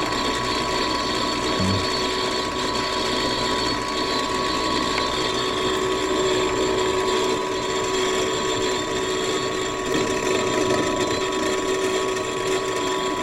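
Furnace draft inducer motor running with a steady, rattling mechanical grind over a constant hum. Its blower wheel is damaged, which gives the diesel-like sound.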